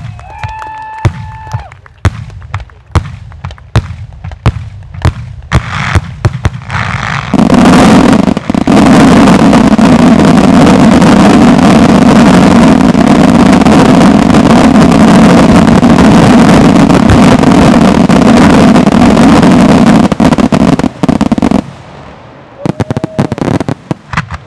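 Consumer firework batteries firing: a quick run of sharp bangs and cracks. About seven seconds in, the shots fuse into a continuous, very loud barrage lasting about fourteen seconds, then break back into a few separate bangs near the end.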